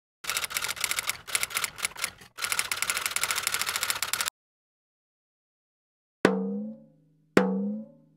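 Typewriter typing sound effect: rapid key clicks for about four seconds with a brief break midway, then two sharp pitched knocks about a second apart, each ringing out briefly.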